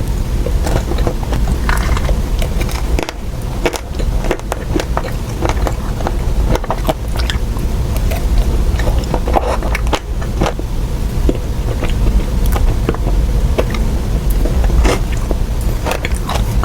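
Close-miked eating of ice cream cake: irregular biting and chewing with scattered small clicks and crackles, over a steady low rumble.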